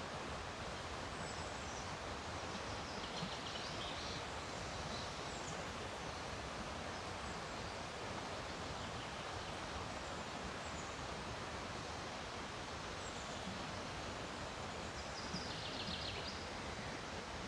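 River rapids rushing steadily. A few high bird calls come through about three seconds in, and a quick bird trill comes near the end.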